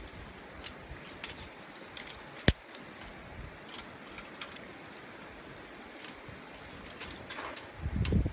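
A wood campfire crackling, with scattered small pops and one sharp pop about two and a half seconds in. Wind rumbles on the microphone near the end.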